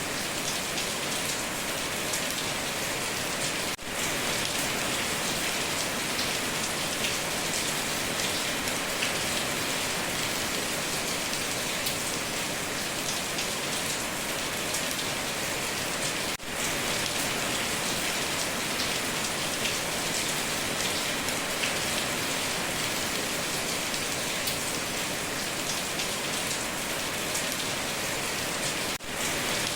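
Heavy rain pattering steadily on a tin roof, a dense even hiss with no thunder, dropping out briefly three times.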